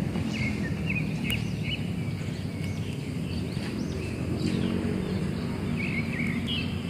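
Small birds chirping in short quick runs, about a second in and again near the end, over a steady low rumble of background noise.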